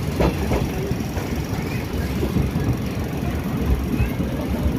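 Passenger train running past a station platform, heard from inside a coach: a steady low rumble of wheels on the rails, with a couple of short knocks near the start.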